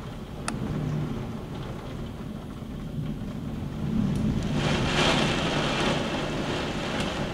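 Heavy downpour in a gusty thunderstorm: rain hissing with a low rumble of wind, swelling much louder about four or five seconds in as a gust drives the rain harder.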